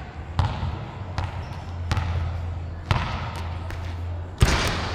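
Sharp knocks about once a second over a steady low hum, with a louder clatter near the end.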